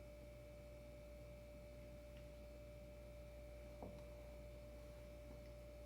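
Near silence: room tone with a faint steady whine, one unchanging pitch, and a single soft click a little under four seconds in.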